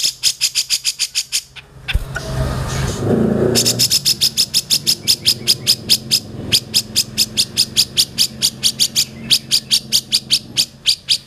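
Cucak jenggot (grey-cheeked bulbul) singing a fast series of sharp, high notes, about seven a second. The series breaks off for about two seconds near the start, then runs on.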